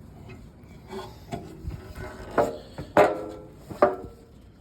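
Climbing down a ladder into a pit: rubbing and shuffling, then three sharp knocks with a brief ringing, about halfway through and twice more near the end.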